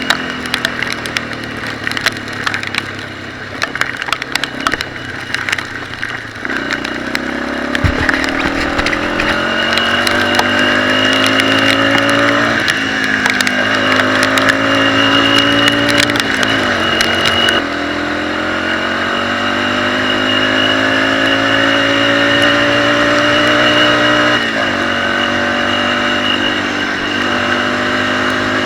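Off-road motorcycle engine pulling under throttle on a trail ride, its pitch climbing slowly and then dropping sharply several times as it shifts up or backs off. Rattling knocks and clatter run through the first few seconds.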